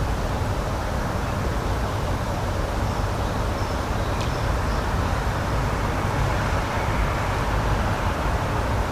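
Steady rushing outdoor ambience, an even noise without pitch, with a few faint high chirps and a tick near the middle.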